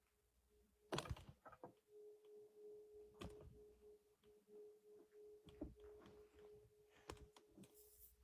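Near silence: a faint steady hum with a few soft clicks and knocks scattered through it, the first about a second in.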